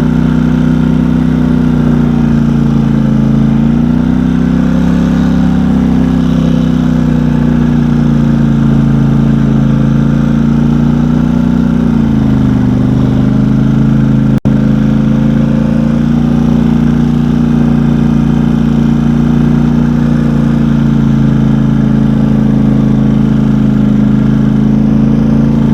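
Engine of a ridden off-road machine running steadily under load while pushing through deep snow. Its pitch rises for a couple of seconds about four seconds in, then settles lower again around twelve seconds.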